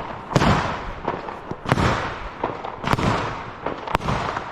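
Fireworks going off: four sharp bangs roughly a second apart, each with a fading tail.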